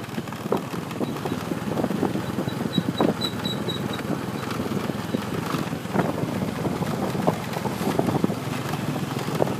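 Motorbike riding along a mountain road: steady engine, road and wind noise with frequent small knocks and rattles. A short series of faint high pips sounds for a few seconds near the start.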